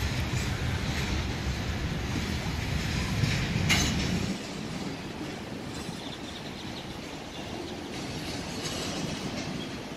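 Double-stack intermodal freight cars rolling past, their wheels clicking over the rails, with one sharp clank a little under four seconds in. A heavy low rumble drops away suddenly just after the clank, leaving a lighter rolling noise.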